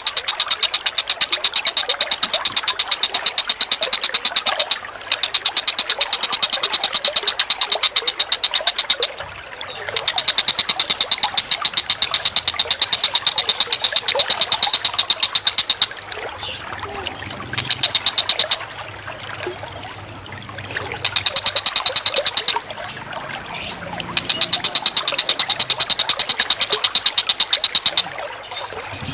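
Birds calling in long, very rapid rattling bursts of several seconds each, separated by short breaks.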